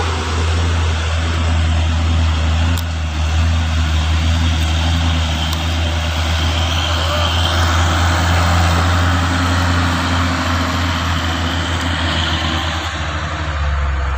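Truck engine running with a steady, loud low drone, with a broad rushing noise over it.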